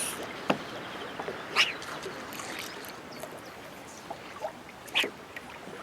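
Water washing steadily, with three brief splashes, about half a second, a second and a half, and five seconds in.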